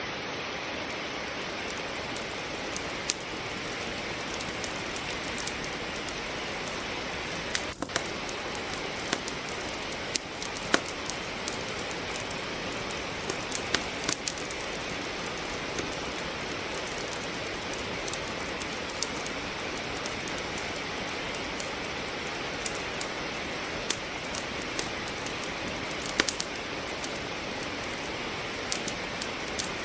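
Steady rain falling, with the irregular sharp crackles and pops of firewood burning in a fireplace scattered through it.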